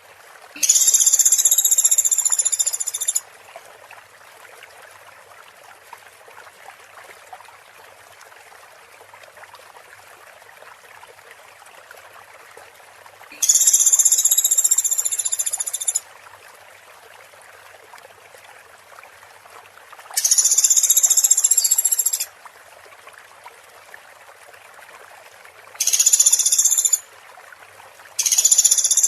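A masteran recording of high-pitched buzzy animal calls for training competition birds, played over steady running water. There are five calls, each about one to two and a half seconds long, the first near the start and the last two close together near the end.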